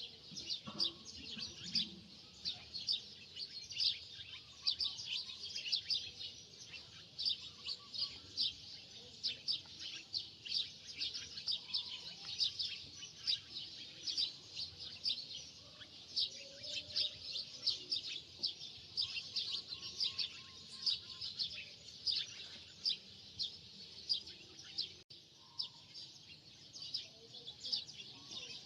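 Many small birds chirping at once: a dense, continuous chatter of short high chirps, several a second, without a break.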